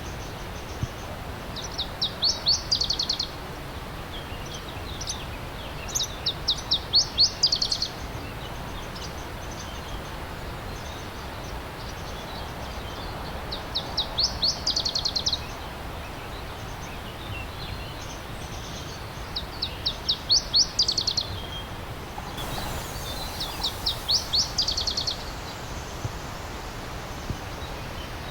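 A songbird singing five short phrases, each a quick run of high down-slurred notes about two seconds long, over the steady rush of a stream.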